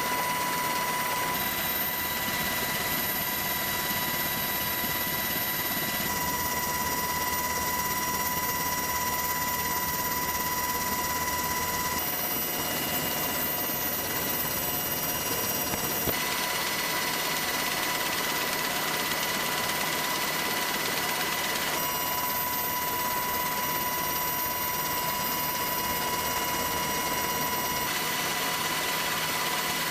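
Aircraft engines running on an aircraft carrier's flight deck: a steady roar with a high whine, changing abruptly every few seconds.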